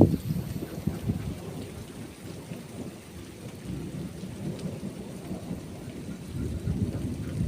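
Thunderstorm: rolling thunder rumbles low and long over steady rain, with a sharp crack at the start and the rumble building again near the end.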